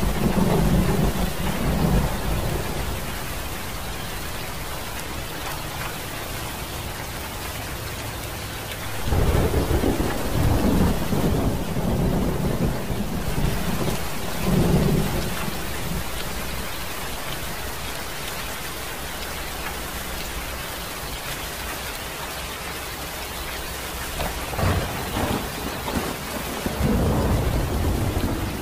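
Steady rain with low rolls of thunder rumbling under it: one at the start, a longer rolling stretch about a third of the way in, and another near the end.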